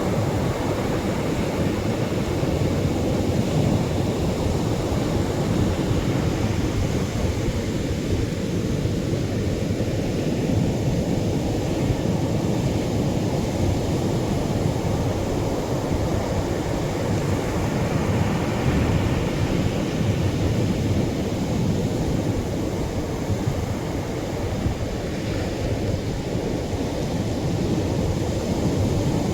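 Atlantic surf washing onto the shore as a steady, low, continuous rush with no distinct individual breakers.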